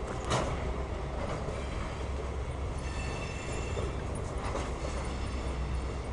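Freight cars of a CSX mixed freight train rolling past: a steady low rumble of steel wheels on rail, with a sharp clank just after the start and a faint high wheel squeal about three seconds in.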